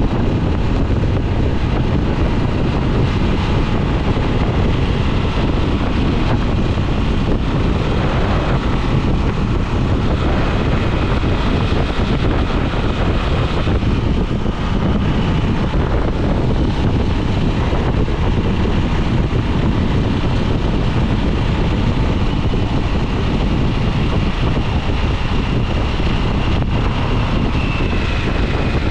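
2022 Harley-Davidson Nightster's liquid-cooled 975 cc Revolution Max V-twin running at a steady pace on the road, with wind rushing over the microphone.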